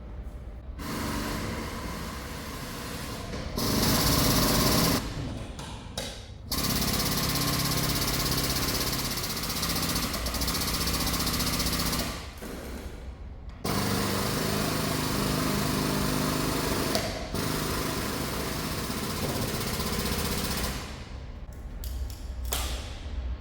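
A powered tool running with a rapid hammering, in several long runs of a few seconds each with short pauses between them.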